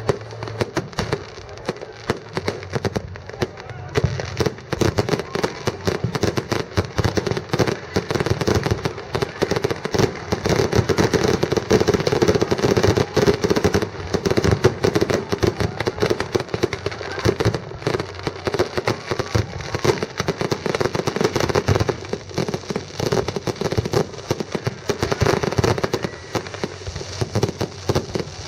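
Fireworks display: a dense, continuous barrage of bangs and crackles, busiest in the middle.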